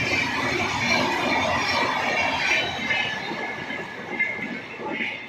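Passenger train of LHB coaches running past on the adjacent track: a steady rumble of wheels on rail with a thin, high wheel squeal. It fades over the last couple of seconds as the final coach goes by.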